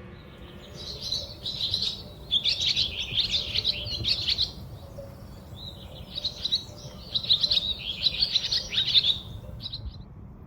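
A small bird twittering in two rapid bouts of high chirps with a short pause between, over a low steady rumble.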